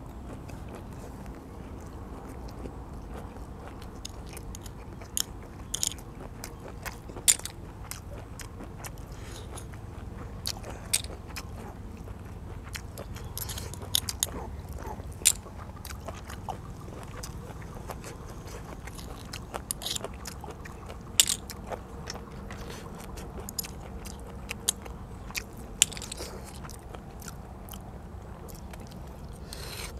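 Close-miked chewing of blanched blood cockles, with scattered sharp clicks as a metal spoon pries at and scoops the cockle shells.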